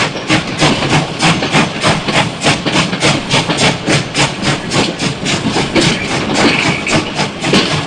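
Steam locomotive working steadily, its exhaust beats coming at about four a second over a steady hiss of steam.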